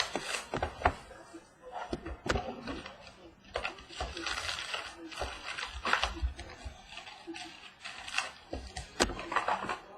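A box of trading cards and its packaging being opened and handled: cardboard and plastic wrapper crinkling and tearing, with irregular small clicks and rustles.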